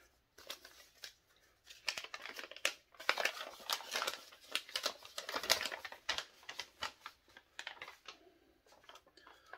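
Cardboard product box being handled: irregular rustling, scraping and light taps of cardboard and paper, busiest in the middle.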